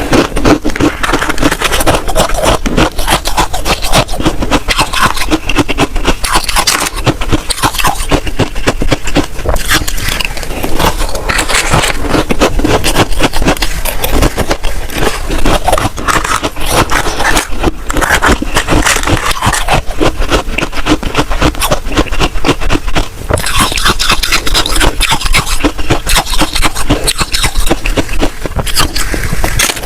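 Freezer frost being scraped and crunched close to the microphone: a dense, continuous run of crackles and scrapes.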